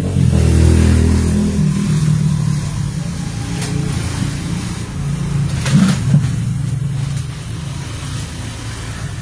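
Low rumbling and crackling from a wired microphone being moved about while live through an amplifier, loudest in the first second and a half and again briefly about six seconds in. The noise comes from a faulty connection at the microphone's base, which makes it drop out when moved.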